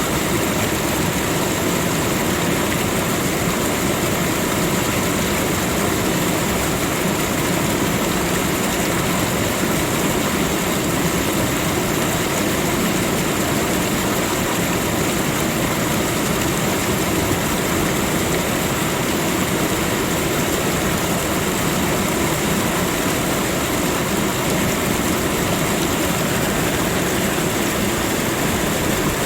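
A steady, unbroken rushing noise from a nature soundscape, the same throughout with no separate events.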